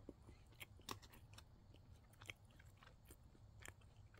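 Faint chewing of a dense, fudge-like peanut butter chocolate snack cake: soft, scattered mouth clicks and smacks.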